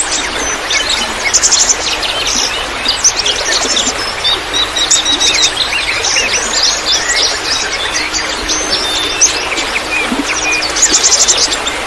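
Many songbirds chirping and trilling at once in a dense, continuous chorus of rapid high calls, over a steady trickle of running water.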